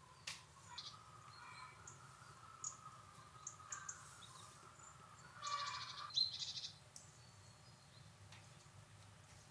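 Faint scattered bird chirps, with a short, quick trill about five and a half seconds in that is the loudest part.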